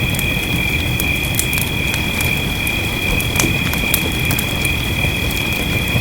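Wood fire crackling, with many short sharp pops, over a steady low rumbling hiss of rain. A steady high-pitched tone sits on top of it all.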